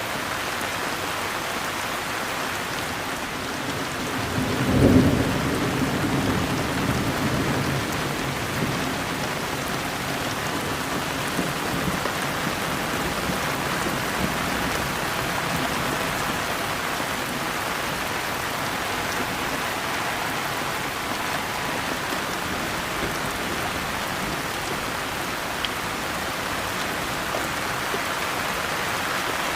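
Steady rain falling, with a clap of thunder about five seconds in that rumbles and fades over the next few seconds.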